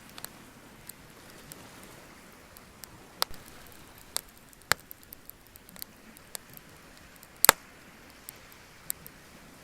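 Bonfire of burning wood crackling: irregular sharp pops, the loudest about seven and a half seconds in, over a steady hiss.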